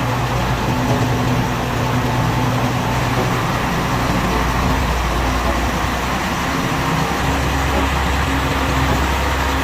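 Engines running steadily, a continuous low hum and rumble with a broad noise over it.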